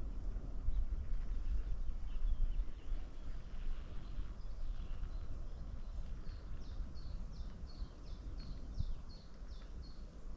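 A small songbird calling: a run of about a dozen short falling notes at roughly three a second, starting about six seconds in, with fainter calls a little earlier. Under it a low steady outdoor rumble.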